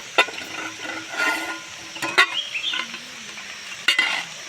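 Pork and chicken sizzling as they are stirred while cooking, with three sharp knocks of the stirring utensil against the pot. The food is starting to burn.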